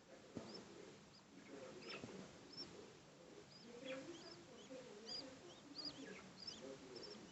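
Young birds' faint, short, high chirps, repeated about once or twice a second and coming more often in the second half, over soft low mumbling calls.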